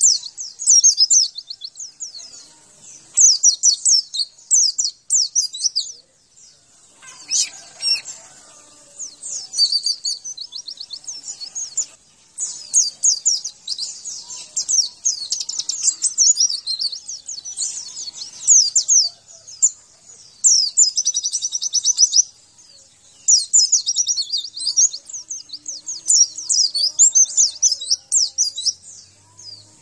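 White-eye (pleci) song from a masteran recording used to stir caged white-eyes into singing: fast, high-pitched twittering trills in phrases of one to two seconds with short pauses between them. A brief noise cuts in about seven seconds in.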